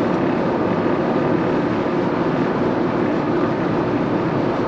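Steady road and engine noise of a car being driven along in traffic.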